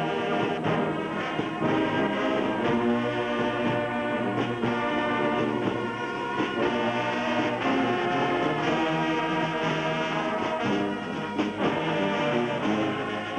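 Brass band music: several horns holding and changing notes together over a regular beat.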